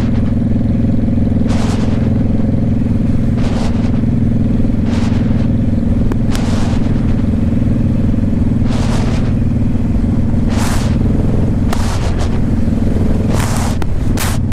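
Motorcycle engine running at a steady pace while riding, with short whooshes every second or two. The engine note shifts about twelve seconds in.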